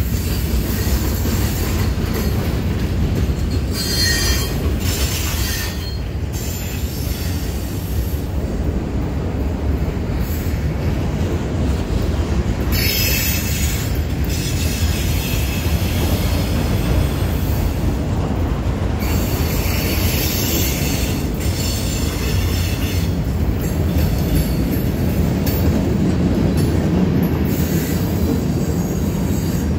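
Freight cars of a manifest train rolling past over a grade crossing: a steady rumble of steel wheels on the rails, with high-pitched wheel squeal coming and going several times.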